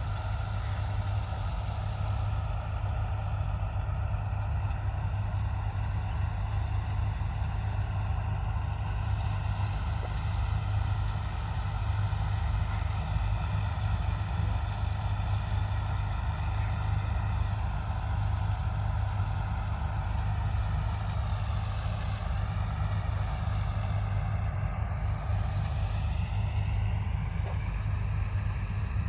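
Large diesel engine of John Deere harvest machinery running steadily: a deep, even drone whose pitch wavers slightly past the middle.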